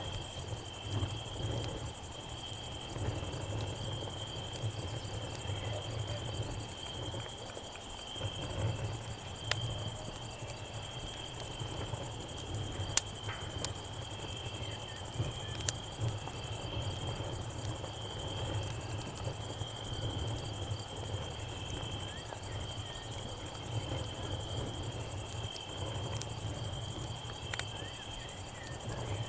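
Crickets and cicadas chirping steadily in a dense night chorus, with a pulsing chirp and a continuous high buzz. A few sharp campfire crackles pop now and then over a low steady rumble.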